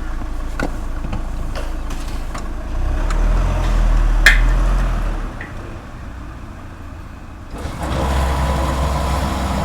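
Motorcycle engine running steadily, with a few sharp clicks, louder for a couple of seconds in the middle. About three-quarters of the way in the sound jumps suddenly to another steady engine sound.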